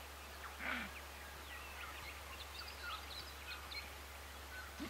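Faint field ambience: small birds chirping in short, scattered calls, over a steady low hum, with a soft breathy sound near the start.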